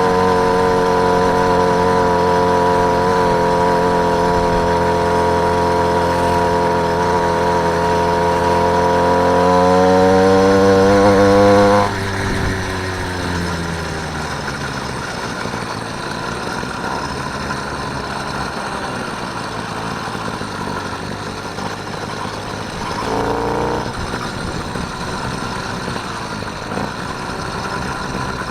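Motorised bicycle's small engine running at a steady pitch, rising a little about ten seconds in. About twelve seconds in its note falls away and the sound drops to a quieter, even rushing noise.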